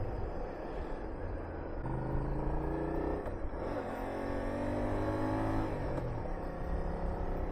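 Honda VTR250's V-twin engine pulling under acceleration. Its pitch climbs, breaks for a gear change about three and a half seconds in, climbs again, then drops near the end as the throttle eases, with wind noise underneath.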